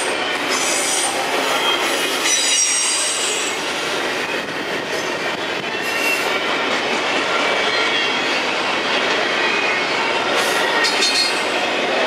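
Freight train cars rolling past on the rails with a steady rolling noise. The wheels squeal in short high-pitched bursts several times: about a second in, around three seconds in, and again near the end.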